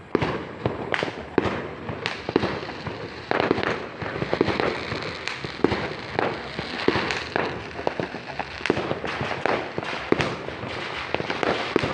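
Fireworks going off in quick, irregular succession: many sharp bangs, with a denser stretch of crackling in the middle.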